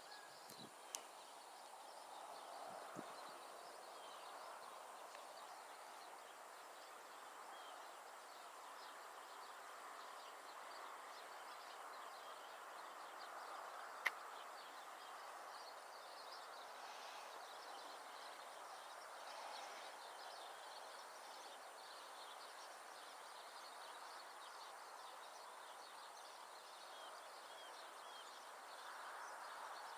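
Faint outdoor ambience: a steady low background noise with small scattered bird chirps, and a single sharp click about halfway through.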